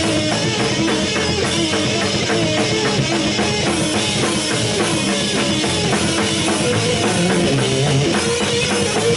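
Live rock band playing an instrumental stretch: drum kit with bass drum, guitars and bass guitar, loud and steady.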